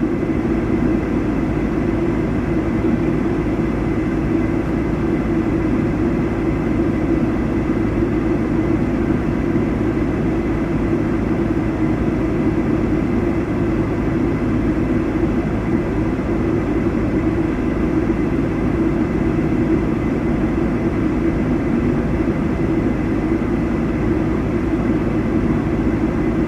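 Steady, unchanging engine drone of an idling vehicle, with no revving and no sudden sounds.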